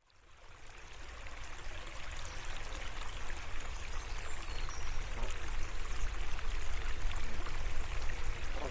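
Small stream of water flowing and trickling steadily, fading in over the first couple of seconds.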